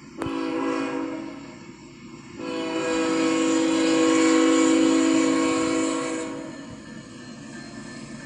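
Freight locomotive's multi-chime air horn sounding a short blast, then a long blast of about four seconds, over the steady rumble of the passing train.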